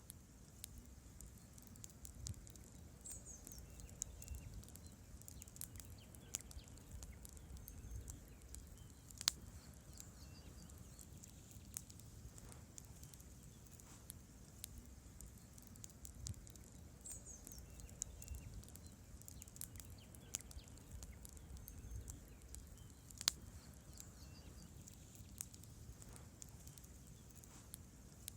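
Campfire wood burning: faint, irregular crackles and sharper pops from the logs over a low, steady rumble of the flames, with two louder pops about nine seconds in and near the end.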